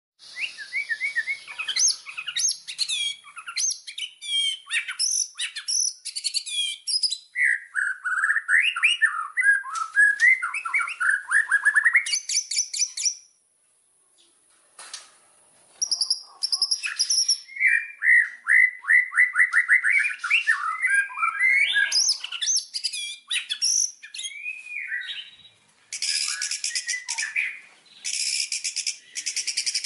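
White-rumped shama singing a long, varied song of whistled phrases and fast trills. It pauses briefly about halfway through, then picks up again and ends in a run of rapid repeated notes.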